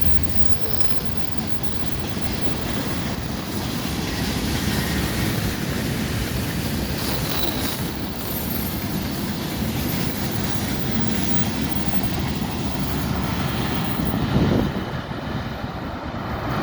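Freight train's wagons rolling past on the rails, a steady loud rumble of wheels on track, with a brief louder clatter about 14.5 seconds in.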